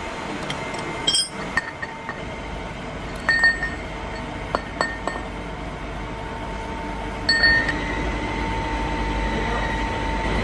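Metal pieces clinking and tapping together in clusters of sharp, briefly ringing strikes, over a steady machine hum.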